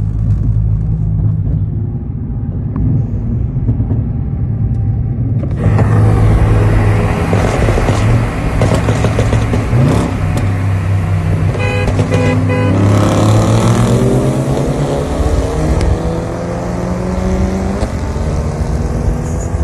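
A car running at steady cruising speed, then put to full throttle about five seconds in: the engine and road noise swell, and from the middle on the engine note climbs steadily as the car accelerates hard.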